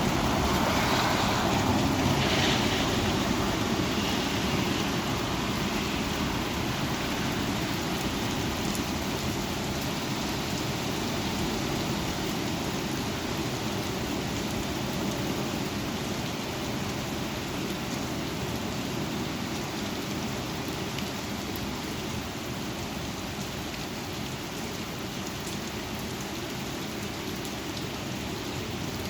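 Thunderstorm rain and strong wind in a steady rush, louder in the first few seconds and then slowly easing.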